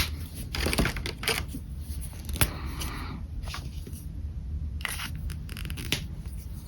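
Pen nib scratching across paper in short, irregular strokes, with one longer stroke about halfway through, over a steady low hum.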